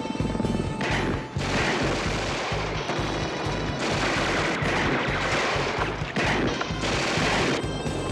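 Action score with a steady pulsing beat, and from about a second and a half in, dense rapid gunfire over it that stops shortly before the end.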